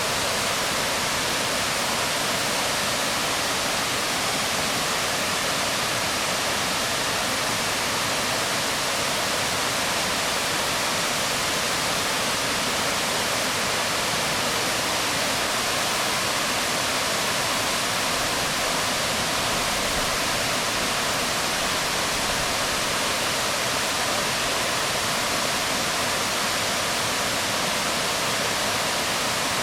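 Waterfall falling on rocks: a steady, unbroken rush of water.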